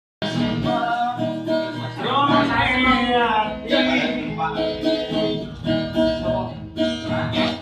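Street busker singing to a strummed acoustic guitar.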